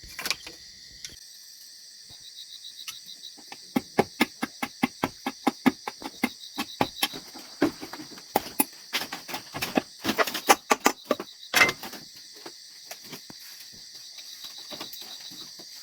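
Steady chirring of crickets and other insects, with a long run of sharp knocks, about three to four a second, starting a couple of seconds in and stopping about three-quarters of the way through. The knocks are the loudest sound.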